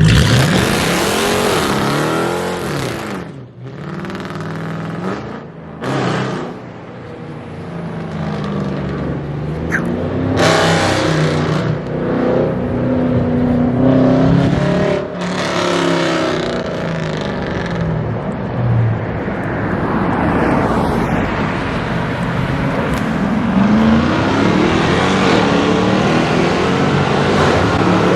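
Straight-piped 5.7L HEMI V8 of a Dodge Charger R/T, very loud through a full straight-pipe exhaust with no mufflers or resonators. It revs up and down in short blips for the first few seconds, then runs hard with the pitch rising and falling.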